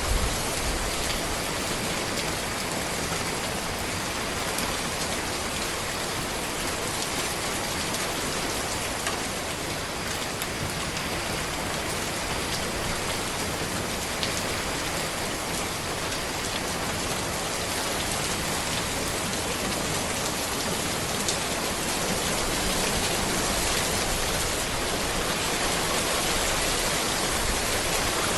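Steady rain falling on a road: an even hiss with scattered sharper drop ticks, growing a little louder near the end.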